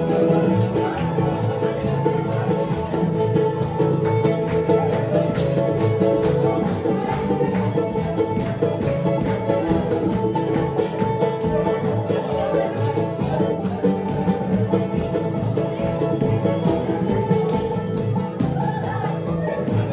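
Live bluegrass band playing a fast instrumental stretch, with banjo and guitar picking rapidly and steadily.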